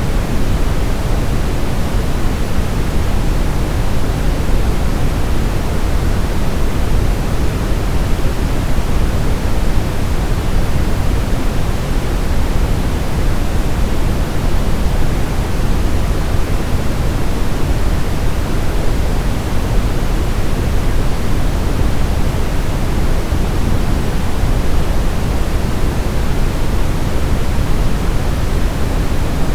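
Generated sleep-aid white noise: a steady, even hiss with its weight toward the low end.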